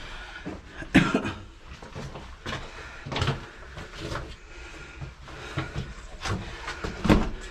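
Knocks, scrapes and shuffling of people crawling through a cramped cave passage, with sharp bangs about a second in and near the end.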